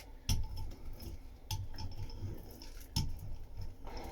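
Three light clinks or knocks, about a second and a half apart, over a low steady hum.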